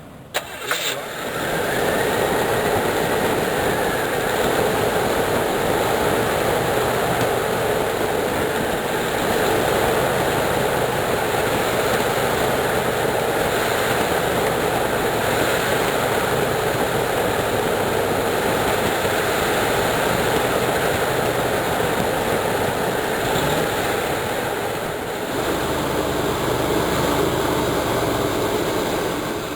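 Chevrolet 305 cubic-inch small-block V8 in a 1985 Caprice, running steadily with a sharp click about half a second in and a change in its sound near the end. The engine won't idle on its own, which the owner puts down to the choke and idle mixture settings after a carburetor rebuild.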